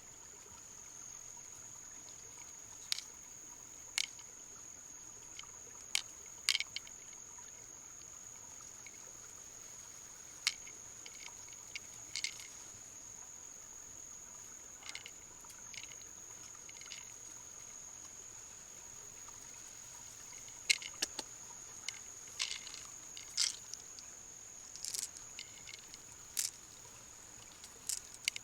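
Scattered sharp clicks and light taps, some in quick pairs and clusters, over a steady high-pitched whine and a faint hiss.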